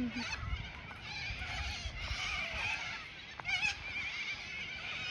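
Many birds calling at once, an overlapping chorus of wavering chirps, with one louder harsh call about three and a half seconds in.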